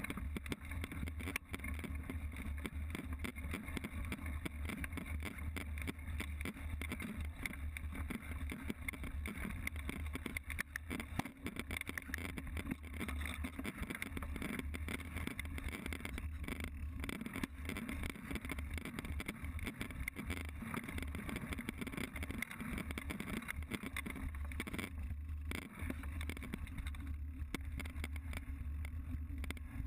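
Mountain bike riding a dirt trail, heard from a GoPro on the bike or rider: a steady rumble of wind and tyre noise, with frequent small knocks and rattles from the bike over the rough ground.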